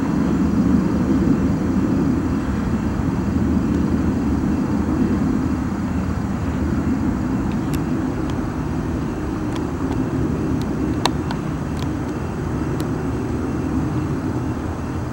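Distant engine noise: a steady low rumble that slowly fades, with a few faint clicks.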